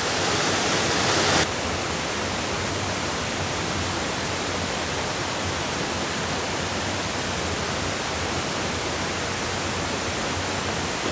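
Steady rush of water pouring over a small man-made waterfall on a creek. The sound is a little louder and brighter for the first second and a half, then settles to an even level.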